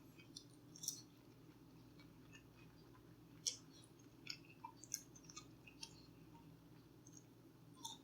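Faint eating sounds close to the microphone: a person chewing, with scattered soft clicks and crackles over a low steady room hum.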